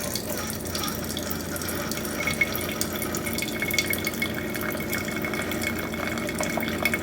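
Keurig single-serve coffee maker brewing a K-cup, with coffee streaming steadily into the cup. A faint high tone comes in about two seconds in.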